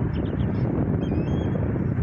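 Wind buffeting the microphone with a steady low rumble, and faint bird chirps and thin whistles above it.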